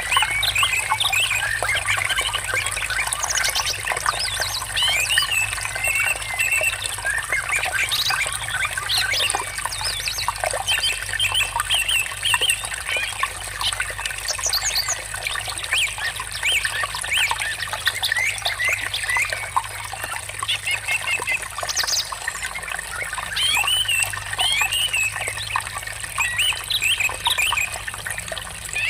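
Many birds chirping and warbling over a steady trickle of running water.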